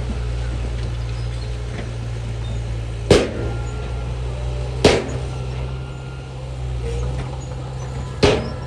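Heavy machinery's diesel engine running steadily, with three sharp bangs: one about three seconds in, one near the middle and one near the end.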